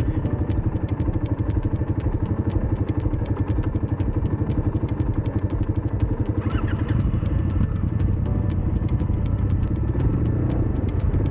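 Motorcycle engine running steadily while being ridden, with an even, rapid pulsing.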